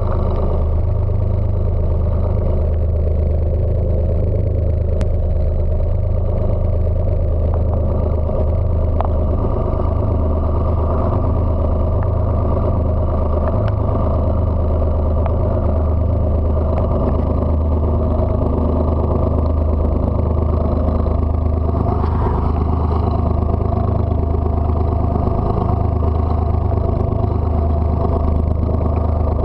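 Fishing boat's engine running, a loud steady low drone heard in the hold.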